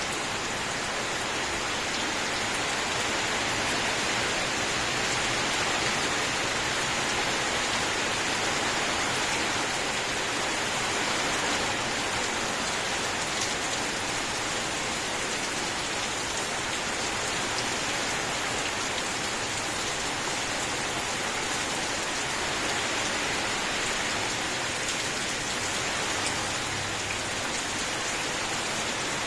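Steady heavy rain, an even continuous hiss of drops falling on a surface, with no thunder or breaks.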